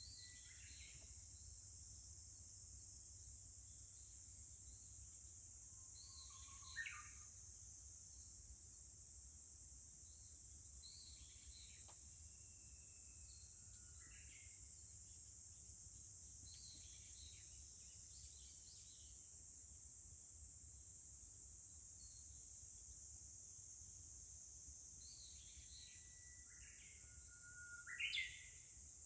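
Faint, steady high-pitched drone of an insect chorus. Over it, a songbird gives short whistled calls every few seconds, with louder phrases about seven seconds in and near the end.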